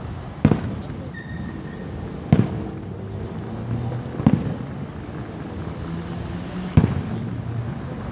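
Aerial fireworks shells bursting: four sharp booms spaced about two seconds apart, each with a short echoing tail, over steady background noise.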